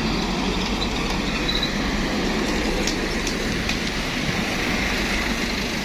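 Heavy truck engine running under load on an uphill climb, a steady drone with a constant low hum.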